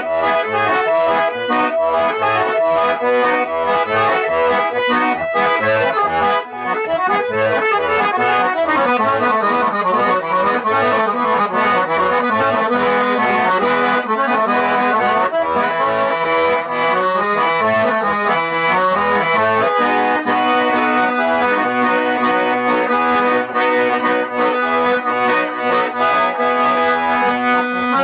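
Accordion playing an instrumental folk tune, a quick melody over sustained bass notes, with no singing.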